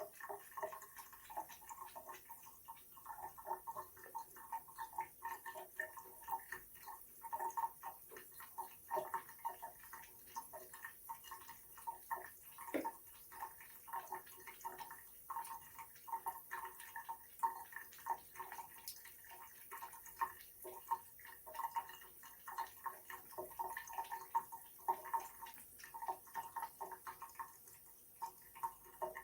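Water dripping and trickling from a faucet: a steady run of small, irregular plinks and splashes.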